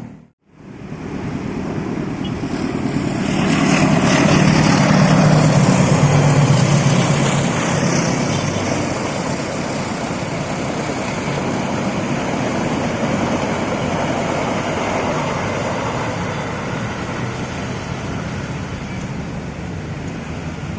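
Electric commuter train passing close by: a steady rumble that swells about four to seven seconds in, then runs on at an even level.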